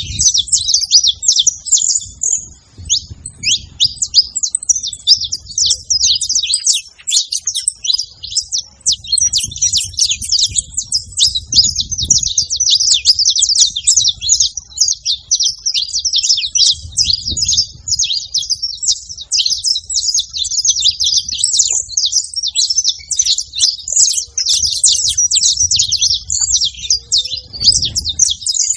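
Saffron finch singing: a fast, nearly continuous run of high chirps and trills with only brief pauses.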